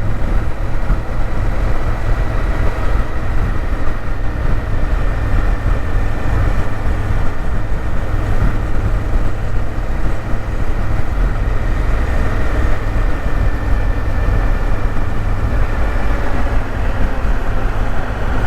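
Steady rush of wind and road noise, with a low rumble, from a Honda Africa Twin motorcycle being ridden along, heard from the rider's position.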